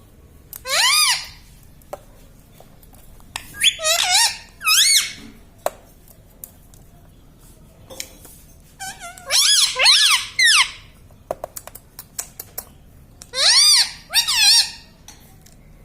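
Indian ringneck parrot giving shrill, squeaky calls in four clusters of rising-and-falling notes, with small clicks in between.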